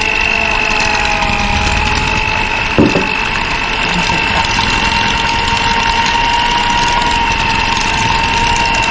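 Electric hand mixer running at a steady speed, its motor whining evenly as it beats creamed butter in a glass mixing bowl while condensed milk is added. There is one brief knock about three seconds in.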